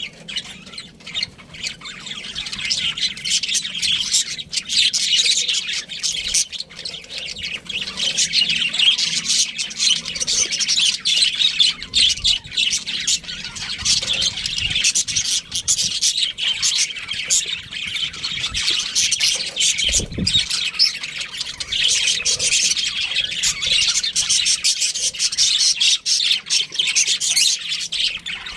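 Pet budgerigars chirping and chattering without a break, a dense stream of quick high warbles, chirps and squawks. A brief low thump comes about two-thirds of the way through.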